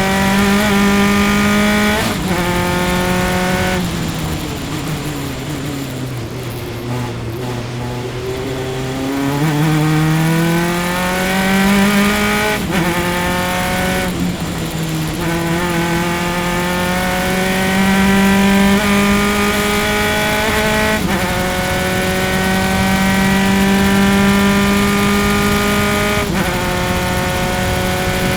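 Single-seater race car engine at racing speed, heard onboard. It revs up and drops in pitch with quick upshifts about 2, 12, 21 and 26 seconds in. Between about 4 and 9 seconds it slows, falling in pitch, then accelerates again.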